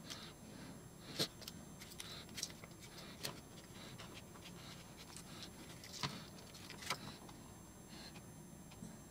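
A knife scraping and clicking as it trims still-soft epoxy and fiberglass off a plastic car door trim piece. The sound is a scatter of short, faint scrapes and ticks, the sharpest about a second in and twice more around six and seven seconds.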